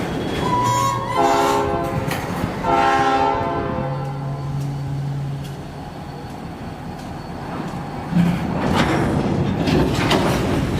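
EMD diesel locomotive air horn sounding two long blasts about a second in, over the steady rumble and clatter of a freight train rolling by.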